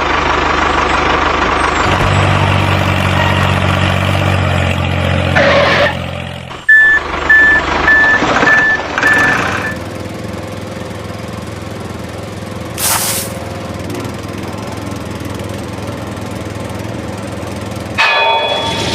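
Heavy vehicle engine running, then a reversing alarm beeping steadily for about three seconds, and a short hiss of air brakes about 13 seconds in.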